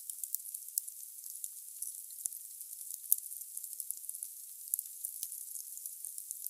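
Logs burning in a fireplace: a steady hiss with frequent sharp crackles and pops, one louder pop about three seconds in.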